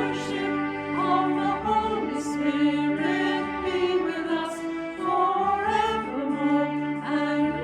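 Music: sung melody over long sustained accompaniment chords, in the manner of a slow hymn.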